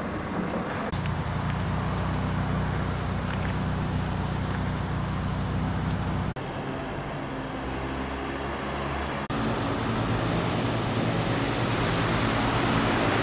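An engine running steadily, a low hum with sudden breaks about six and nine seconds in.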